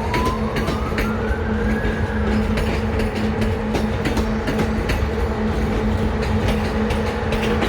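A train rolling slowly past, its wheels clicking over rail joints and points, with a steady hum and a rising whine in the first couple of seconds.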